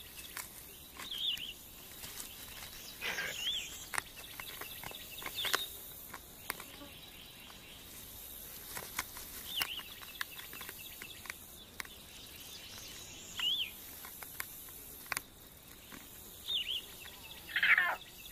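Short bird chirps, each a quick rise and fall in pitch, every few seconds over a soft outdoor background, with scattered light clicks and rustles.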